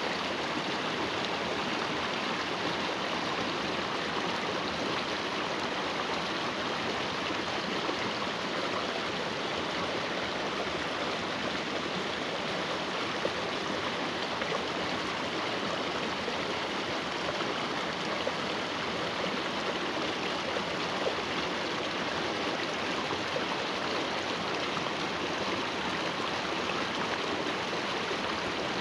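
Steady rush of flowing water from a small stream, even and unbroken.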